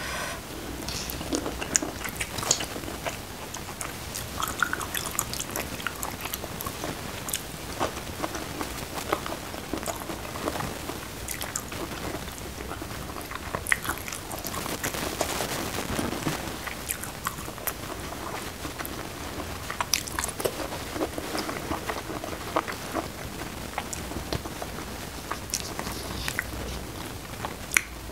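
Close-up eating sounds: wet chewing and mouth smacking with many small irregular clicks, as mushrooms in a thick chilli sauce are picked up by hand and eaten.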